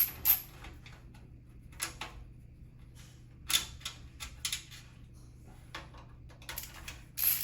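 Hands working on a PC case: scattered light clicks and knocks of parts and hardware being handled. Near the end comes a run of quick, evenly spaced ratcheting clicks, about two or three a second, over a faint steady low hum.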